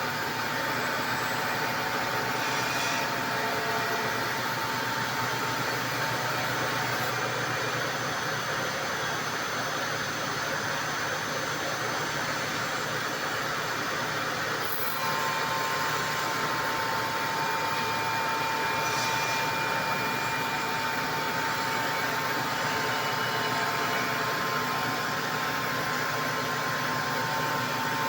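4-axis CNC router running, its spindle whining steadily over the noise of the cut as it machines wooden chair legs. About halfway through the whine shifts pitch and the sound gets slightly louder.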